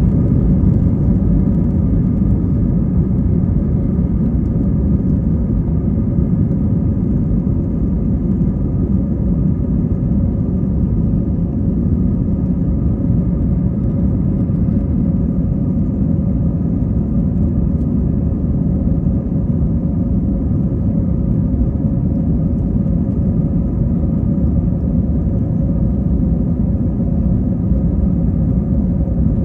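Airbus A320 on its takeoff: a loud, steady rumble of the jet engines and airflow with a faint steady hum above it, holding even throughout.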